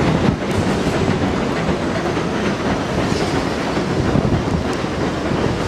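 Subway train running on its rails, wheels clattering steadily on the track.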